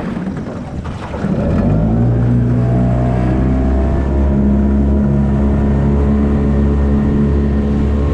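5 hp Yamaha two-stroke outboard opened up: it revs up over about the first second and a half, then runs steadily at full throttle.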